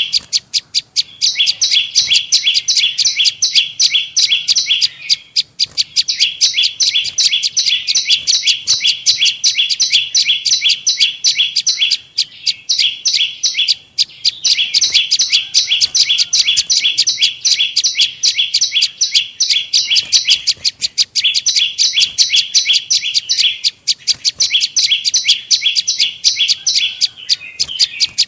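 Prenjak lumut bird's lure call: a fast, rapid-fire series of high chirping notes delivered in phrases a few seconds long, broken by short pauses. This is the recording used by bird trappers to draw the bird in.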